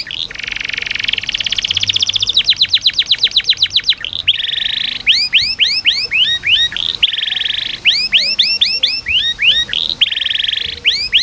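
Domestic canary singing: a run of tours, fast repeated trills switching to smooth buzzy rolls and to series of rising whistled notes, each phrase lasting about a second before the next begins.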